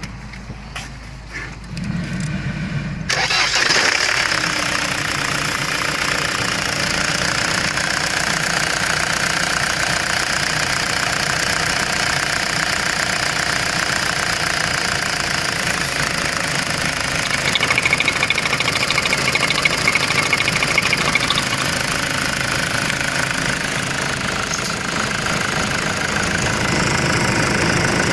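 Opel Y20DTH 2.0-litre four-cylinder turbodiesel being cranked; it catches about three seconds in and then idles steadily.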